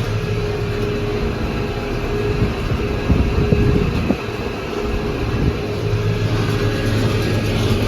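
McCormick MTX 150 tractor engine running steadily while working with a baler, with a brief louder rumble about three seconds in.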